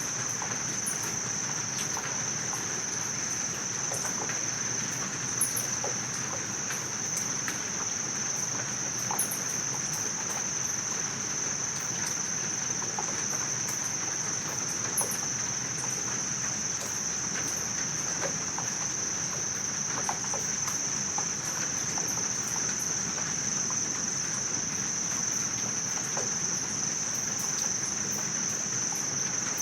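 Steady, high-pitched insect chorus, one unbroken trill, over a soft even hiss. Scattered faint ticks and a few brief, very high chirps come in the first half.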